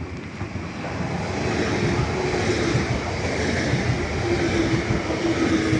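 A vehicle passing close by. Its running noise swells over the first two seconds and then holds steady, with a steady hum coming in near the middle and again later.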